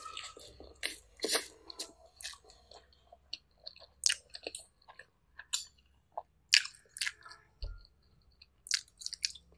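A person chewing mouthfuls of spaghetti up close, with irregular short wet smacks and clicks of eating, a couple a second.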